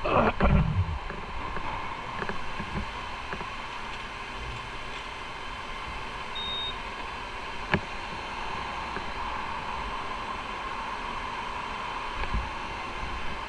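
Motorcycle running on the road, with a steady mix of engine and wind noise; a loud low thump in the first second and a sharp click about eight seconds in.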